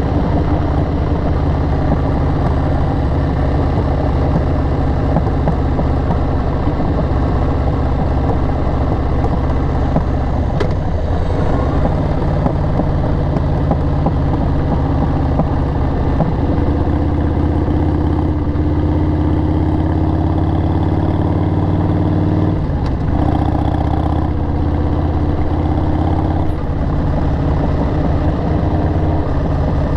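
A 2002 Harley-Davidson XL883R Sportster's 883 cc air-cooled V-twin running through aftermarket Cobra 909 Speedster Short mufflers. Engine speed holds steady for stretches and shifts up and down several times.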